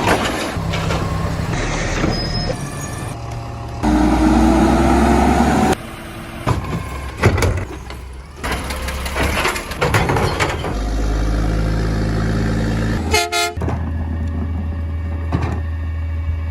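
Small garbage truck's engine running while its hydraulic packer compacts the trash, revving up with a rising whine about four seconds in. A short horn toot comes about thirteen seconds in.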